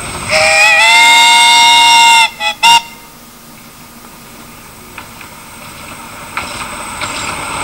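A miniature railway locomotive's whistle sounding one long blast of about two seconds, rising slightly as it opens, then two short toots.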